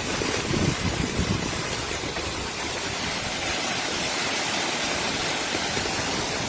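Steady rushing noise of water, with a few low rumbles in the first second and a half.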